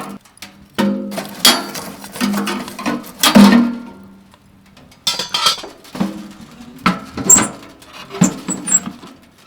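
Cookware and utensils clinking and knocking: a string of irregular taps, several leaving a short ringing note.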